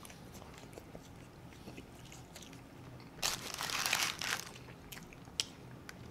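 Close-miked chewing of Cajun-seasoned fries, soft crunching clicks. About three seconds in comes a louder crunching, crinkling burst lasting about a second, then a few sharp clicks.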